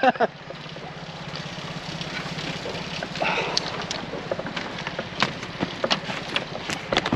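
The small motor of a bamboo train (norry) running steadily at idle, a low pulsing hum, with scattered knocks and clatters over it.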